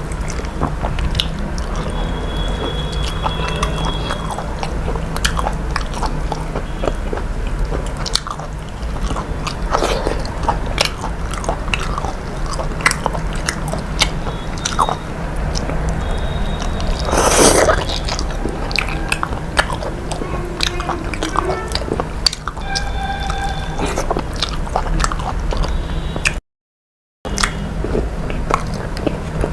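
A person eating, biting and chewing food with many small clicks and smacks over a steady low hum, with one brief louder rush a little past halfway. The sound cuts out for under a second near the end.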